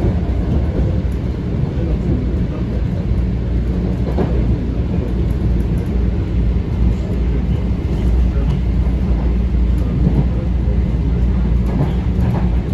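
Metro-North M7 electric railcar running between stations, heard from inside the car: a steady low rumble of wheels and running gear on the track, with a few faint clicks.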